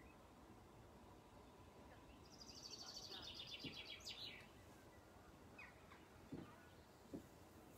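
Faint outdoor ambience with small birds: a rapid, high trill of quickly repeated notes lasting about two seconds near the middle, then a few short single chirps. A couple of soft low knocks near the end.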